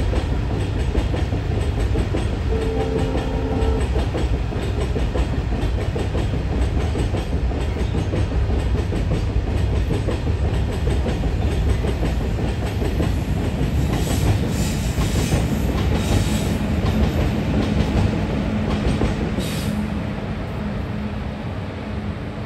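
Heavily loaded Indian Railways goods train rolling past, its wagons rumbling and clattering over the rail joints, with a few short high-pitched screeches late on and the sound beginning to fade near the end.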